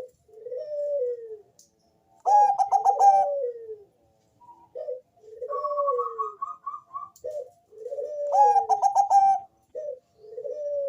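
A zebra dove of the Thai-bred 'perkutut bangkok' line cooing over and over: each phrase is a short clipped note followed by a falling coo. Twice, about two seconds in and again past eight seconds, a louder stuttering run of quick notes comes before the coo, and a quick series of higher notes sounds around the middle.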